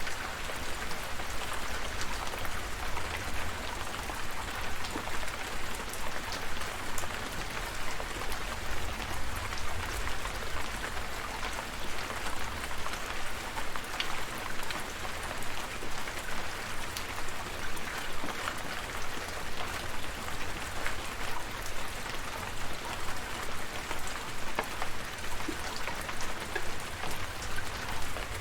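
Steady rain falling, an even hiss with scattered individual drops ticking through it, over a constant low rumble.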